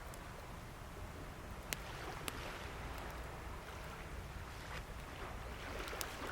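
Wood fire crackling, with three sharp pops (two around two seconds in, one near the end), over the steady rush of waves breaking on the shore.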